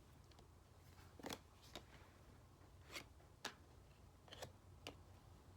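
Faint clicks and taps of oracle cards being handled, about six scattered over a few seconds, over a low steady hum.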